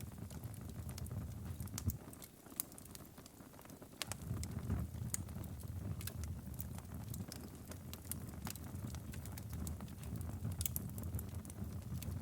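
Wood fire burning in a fireplace: a low steady rumble of flames with scattered sharp crackles and pops. The rumble drops away for a couple of seconds about two seconds in, then returns.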